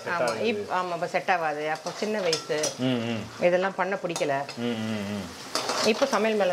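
Garlic and small onions sizzling in oil in a kadai as a spoon stirs and scrapes against the pan, with a person talking over it.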